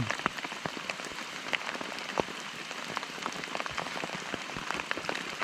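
Heavy rain falling, with many separate drops striking close by in an irregular patter.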